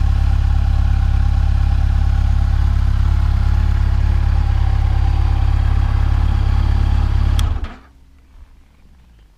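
Motorcycle engine idling steadily, then shut off about seven and a half seconds in, with a click just as it cuts out.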